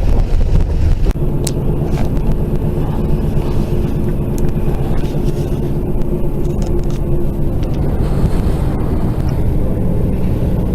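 A car engine running steadily, with a low rumble beneath it.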